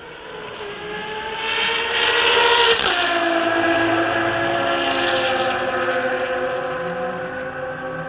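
A Ferrari race car at high revs passing close by: the engine note climbs and grows louder as it approaches, drops sharply in pitch as it goes past about three seconds in, then runs on lower as it pulls away.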